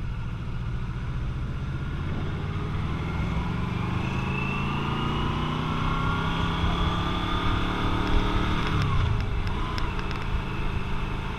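Motorcycle engine under way, its note climbing slowly for several seconds as it accelerates, then falling sharply about nine seconds in before running steady again.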